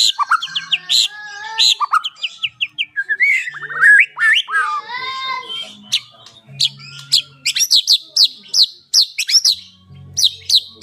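White-rumped shama (murai batu) singing a varied song: quick strings of sharp high notes, lower warbled phrases in the middle, then a fast run of repeated down-slurred whistles in the second half.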